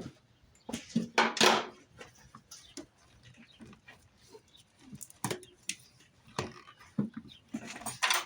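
Irregular clinks, knocks and rustling of hand work in a car's engine bay, with tools and parts being handled, loudest about a second in and near the end.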